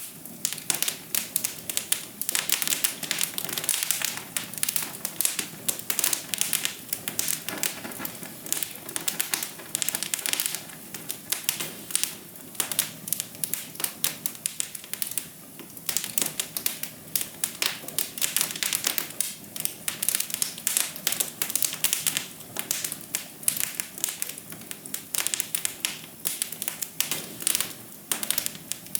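Wood fire crackling in a fireplace: a dense, irregular run of snaps and pops over a soft steady hiss.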